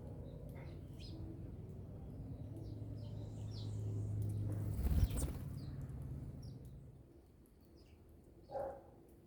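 Small wild birds chirping in short, high calls, over a low hum that swells to a thump about halfway through and then fades away. A single lower, louder call comes near the end.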